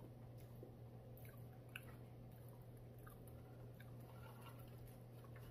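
Faint chewing of food, with a few soft, scattered mouth clicks over a steady low hum.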